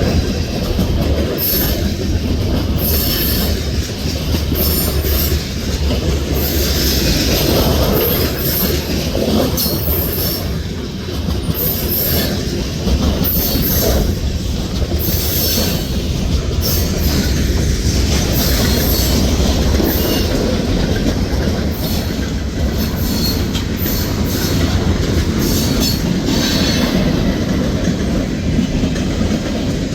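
Freight train cars rolling steadily past through a track crossover and curve, wheels clattering over the switch joints with intermittent high-pitched wheel squeal from the bend.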